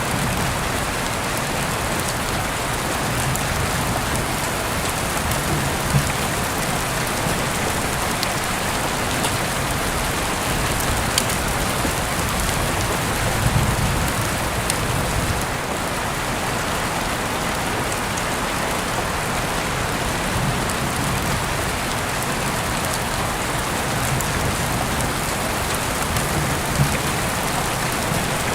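Heavy rain falling steadily, heard through an open window, with an occasional sharper drop ticking close by.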